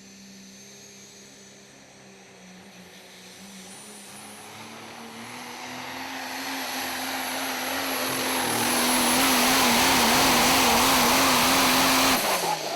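Super stock diesel pulling truck at full throttle, getting steadily louder with a high whistle over the engine note. Near the end the engine speed wavers up and down, then the throttle is cut suddenly and the engine note drops away.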